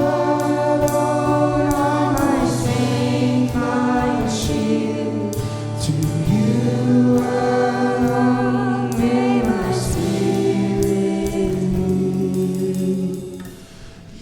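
Worship music: several voices singing a Christian song over a band, with a held bass note and regular percussion hits. The music drops away briefly near the end.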